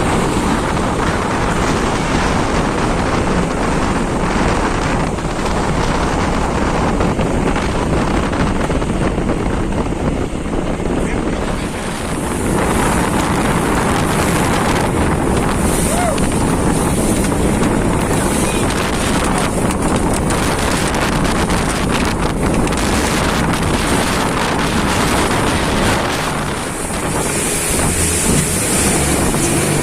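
Boat engine running under way, with wind buffeting the microphone.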